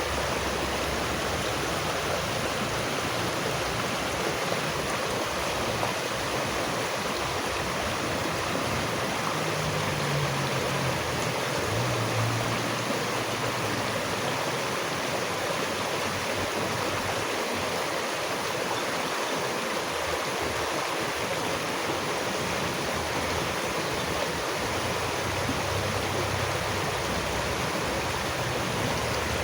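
Running water rushing steadily and evenly, with no breaks or distinct events.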